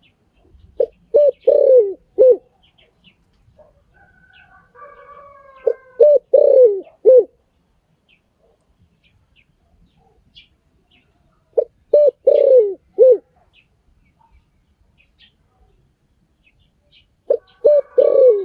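Spotted dove cooing, a phrase of about four low coos repeated four times, roughly every six seconds. Faint higher chirps of other birds run behind.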